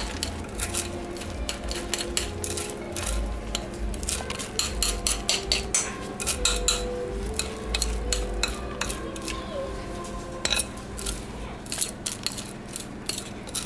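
Sticky Rice Krispie and marshmallow mixture being scooped out of a bowl and pressed into a greased pan, making a run of irregular clicks and scrapes against the dishes.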